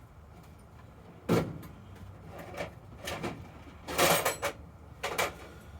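Tool drawers being opened and shut and tools clattering while someone rummages for a tool: a string of sharp knocks and rattles, the loudest about a second in and again about four seconds in.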